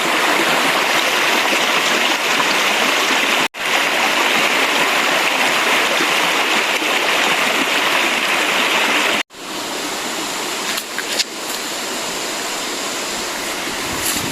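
Rushing stream water, a steady hiss-like rush. It cuts out briefly twice and is somewhat quieter after about nine seconds in.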